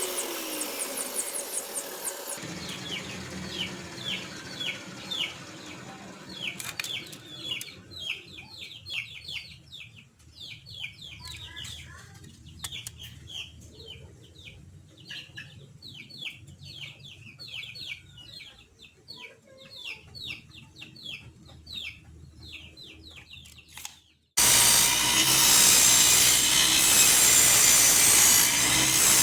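A homemade table saw's motor winding down with a falling whine, then a long stretch of rapid, high bird chirps. Near the end the saw cuts in abruptly and loudly, running and cutting wood.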